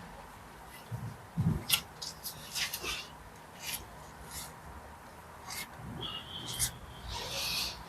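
Pointing trowel scraping and tapping as mortar is pressed into brick joints: short, irregular scrapes and clicks, with a brief squeak about six seconds in.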